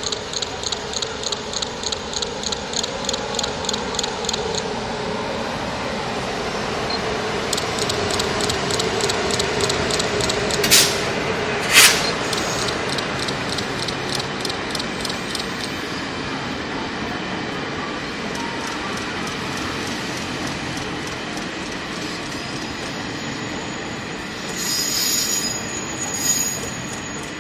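Passenger train running into a station and slowing to stop: a steady rumble with wheels clicking rhythmically over rail joints, two loud sharp cracks about halfway through, and a high-pitched brake squeal near the end.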